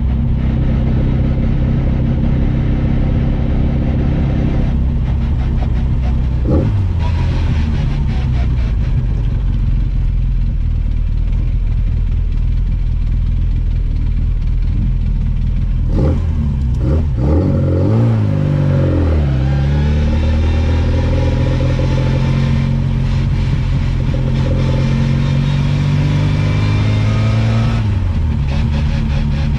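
A classic Mini's 1380 cc A-series engine heard from inside the car on the move. The revs shift with a gear change about six seconds in, drop as the car slows in the middle, then climb as it pulls away and accelerates, with another gear change near the end.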